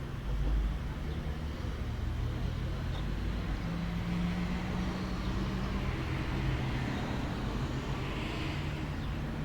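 Road traffic: vehicle engines humming steadily over a wash of road noise, with a swell of tyre hiss near the end.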